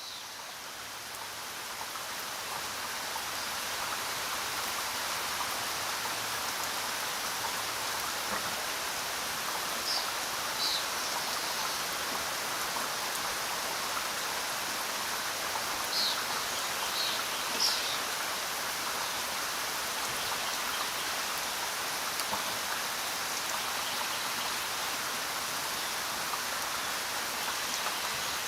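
Steady rain falling, fading in over the first few seconds and then holding even. A few brief high chirps sound over it around a third of the way in and again past the middle.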